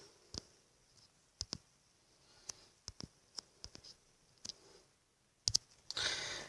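Fingertips tapping a phone touchscreen: about a dozen faint, irregularly spaced clicks, with a brief hiss near the end.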